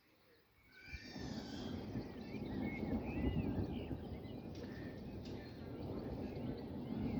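Distant thunder rumbling, starting about a second in and rolling on, about thirteen seconds after a lightning flash. Birds chirp and sing over it.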